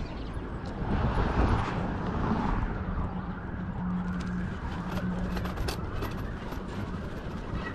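Road traffic and wind rushing over a chest-mounted action camera's microphone while riding a bicycle. A steady engine hum from a nearby vehicle runs for a few seconds in the middle.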